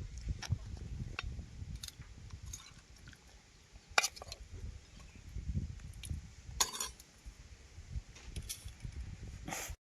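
Occasional clinks and knocks of metal dishes and utensils over low handling noise, with the sharpest clink about four seconds in and a short rattle of clinks near seven seconds.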